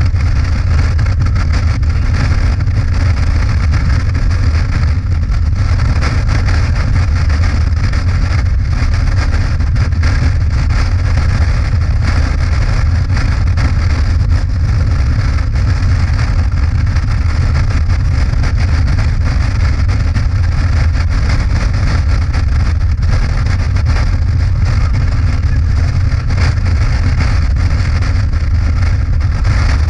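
Motorcycle running at a steady cruising speed, with a steady low engine drone and wind rushing over the microphone.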